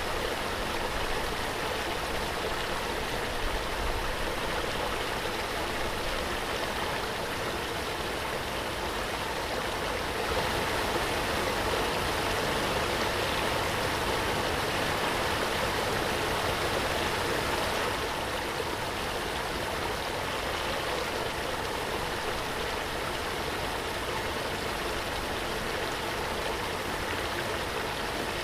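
Waterfall: a steady, dense rush of falling water, swelling slightly for several seconds midway.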